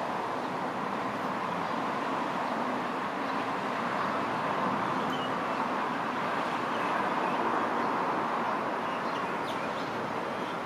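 Steady outdoor background noise, an even hiss-like hum with no clear single source.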